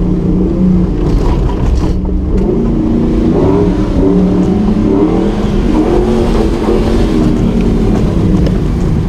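Nissan GQ Patrol competition 4x4's engine running under load, its pitch rising and falling as it is revved.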